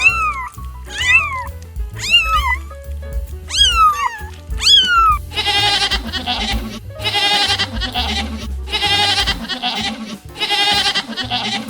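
Animal calls over background music: about six short calls that rise and fall in pitch, then from about five seconds in, longer quavering calls repeated about once a second.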